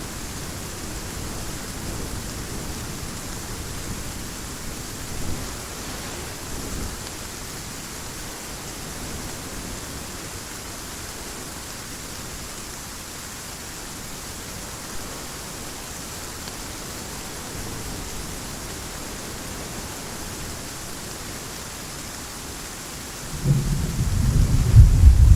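Heavy rain falling steadily, with low thunder rumbling faintly in the first few seconds. Near the end a loud peal of thunder breaks out and keeps rumbling.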